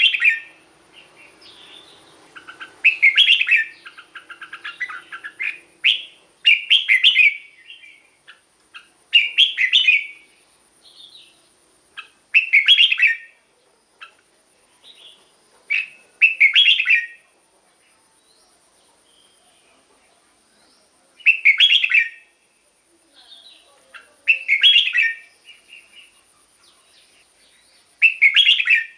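Red-whiskered bulbul singing loud, short phrases over and over, each about a second long with pauses of a few seconds between them and one longer pause about two-thirds of the way through. A faint steady high whine runs underneath.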